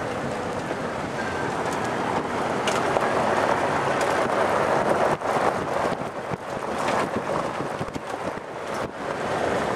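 Gusty storm wind rushing around and into a moving car, over tyre and road noise, swelling and easing a few times.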